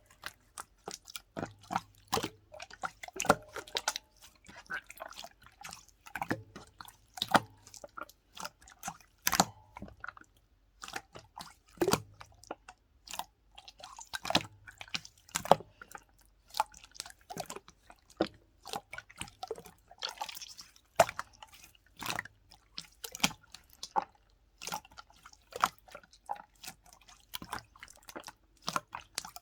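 Blue slime being squeezed and poked by hand, giving a quick irregular run of wet sticky clicks and small pops.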